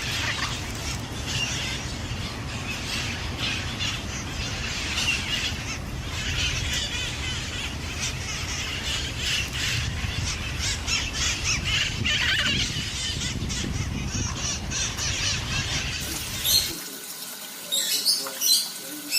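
Many parrots squawking and screeching over one another above a steady low rumble. About three seconds before the end the sound changes abruptly to a quieter scene with a few sharp clicks.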